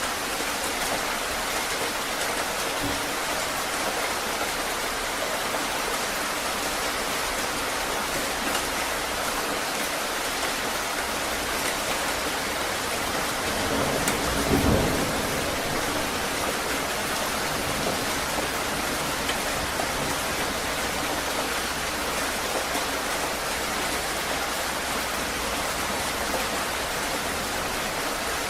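Heavy rain falling steadily, with a short low rumble of thunder about halfway through.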